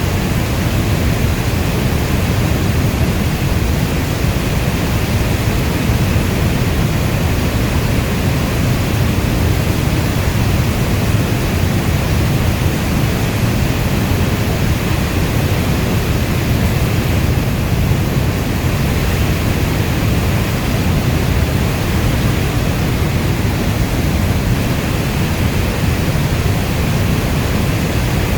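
Steady heavy rainfall: a dense, even rush of rain noise, heavier in the low end, with no distinct drops or thunder.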